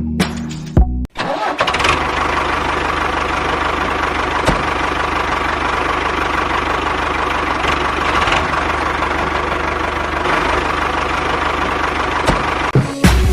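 An engine starting about a second in and then running steadily, with a fast, even firing rhythm. Music plays briefly at the start and comes back at the very end.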